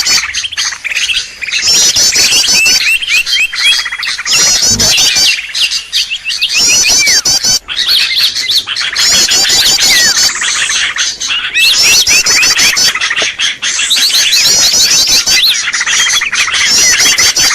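Bird-lure recording (suara pikat) of loud, dense birdsong: short, rapid high trills repeating every second or two over a constant chatter of chirps and clicks. This is the kind of call recording that is played to draw wild birds in.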